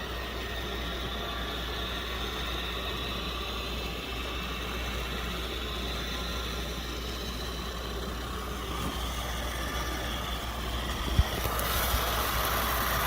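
Roomba i7 robot vacuum running, its fan and brushes whirring steadily with a faint high whine, growing a little louder with a click or two near the end.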